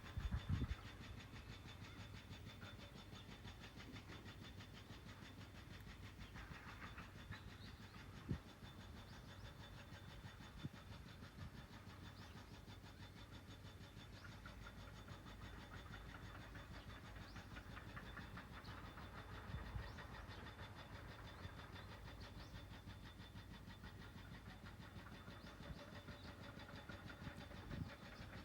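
Faint outdoor ambience: a low steady rumble with a few soft knocks.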